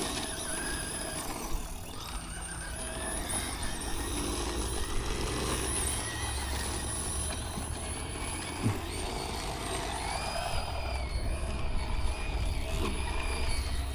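Battery-powered RC truck's electric motor whining, its pitch rising and falling as the throttle is worked, over the rush of the tyres throwing dirt.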